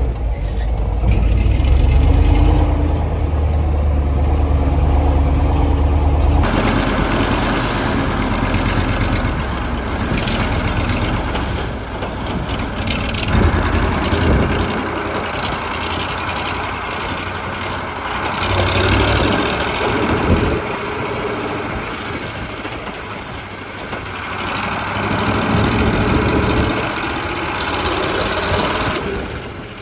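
1985 KAMAZ 4310 6x6 army truck's V8 diesel running as it drives off-road, with a steady low hum for the first six seconds, then a rougher, noisier sound that rises and falls in loudness several times.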